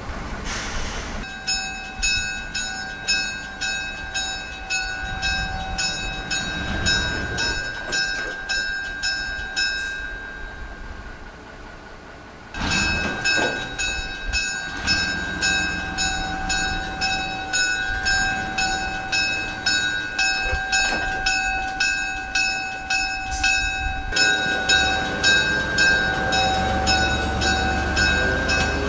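Railroad bell ringing in a steady beat of about two strokes a second over the running noise of a train. The ringing drops out for a couple of seconds near the middle and then resumes.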